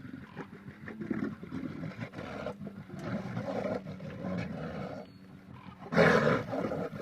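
A large wild animal growling and roaring, with a louder roar starting about six seconds in.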